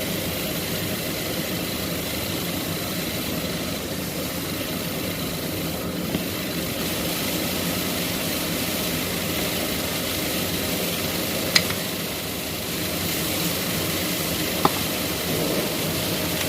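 A machine running steadily, with two sharp clicks in the second half.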